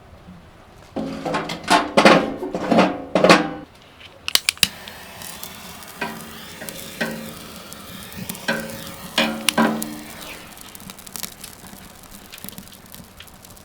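Utensils stirring and scraping in a pan or bowl, then food sizzling steadily in a hot pan from about four seconds in, with occasional clicks of a utensil.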